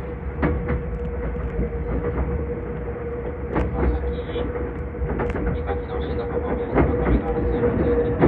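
Meitetsu 2000 series electric train running, heard from inside the passenger car: a steady low rumble and hum, with irregular clicks of the wheels over rail joints.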